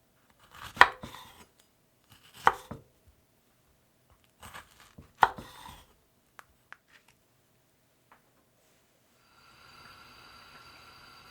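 Knife chopping food on a cutting board: three sharp cuts about two seconds apart, followed by a few light taps. Near the end a steady, quiet hiss with a faint whine in it starts.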